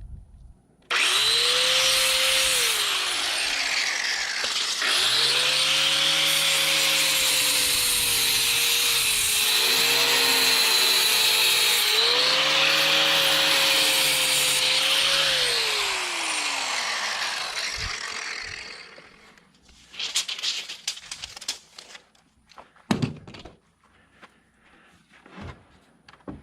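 Electric saw cutting lumber: the motor starts abruptly and runs for about fifteen seconds, its pitch sagging a few times under the load of the cut and recovering, then winds down to a stop. A few sharp wooden knocks follow near the end.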